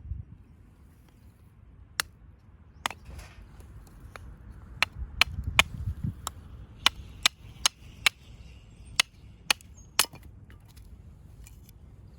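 Firewood being split by hand: a series of about a dozen sharp, crisp strikes of a blade on wood, irregularly spaced and coming fastest in the second half.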